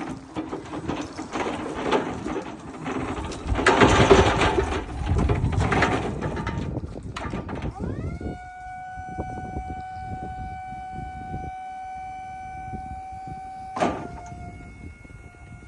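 Electric pallet stacker working: clattering and knocking for the first half, then its electric hydraulic pump motor spins up with a sharp rising whine and runs at a steady pitch as the mast lifts. There is a sharp click a little before the end.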